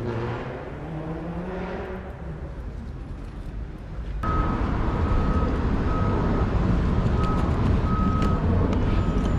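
Small Kawasaki motorcycle engine with an aftermarket exhaust, rising and falling in pitch as the rider works the throttle. About four seconds in, the sound jumps suddenly louder and noisier, and a short electronic beep repeats at a steady pitch about every 0.7 s.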